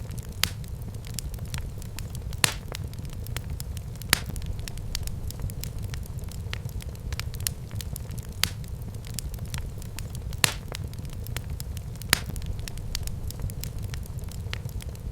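Wood fire burning in a fireplace: a steady low rumble with scattered crackles and a few sharper pops.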